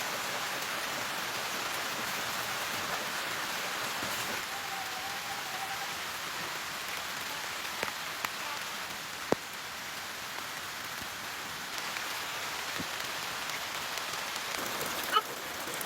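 Steady rain falling, with a few sharp clicks scattered through it, the loudest about nine seconds in.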